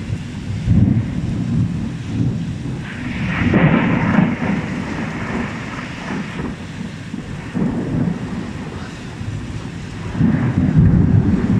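Strong, gusty wind buffeting the microphone in uneven rumbling surges, with a stretch of rushing hiss about three seconds in.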